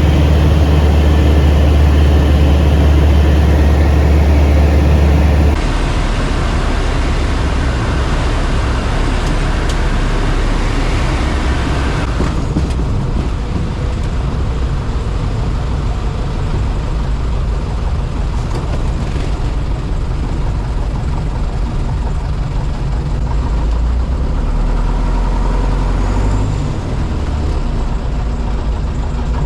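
Piper Super Cub's engine droning steadily in flight, loud and low-pitched. Its tone changes abruptly about five seconds in and again about twelve seconds in.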